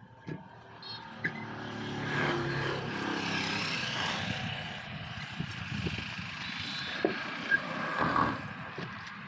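A motor vehicle engine running nearby, growing louder over the first two seconds and easing off near the end, with a few short clicks.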